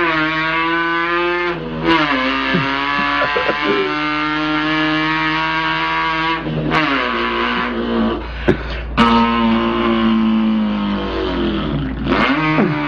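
A man's voice imitating an import car's engine: long buzzing held tones that slide up and down in pitch like revs rising and falling, with short breaks between them.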